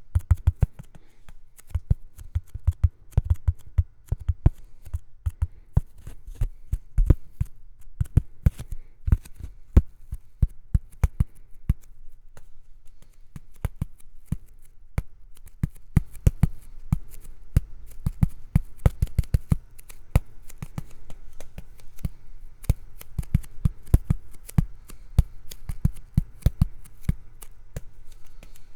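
ASMR tapping: a dense, irregular run of sharp taps and clicks, several a second, layered over one another.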